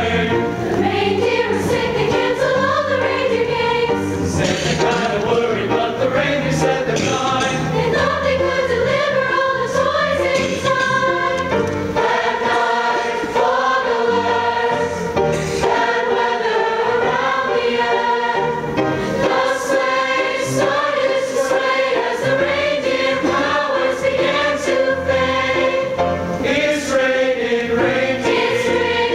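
High school choir singing a Christmas song, many voices together throughout.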